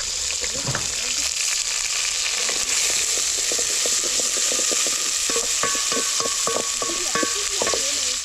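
Food frying in hot oil in a pan with a steady loud sizzle. From about two and a half seconds in, a utensil stirs it, with many quick clicks and knocks against the pan. The sound cuts off suddenly at the end.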